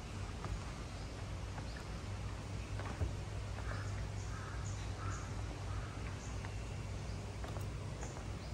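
Birds calling outdoors: three short calls in quick succession near the middle, with faint high chirps scattered around them, over a steady low hum.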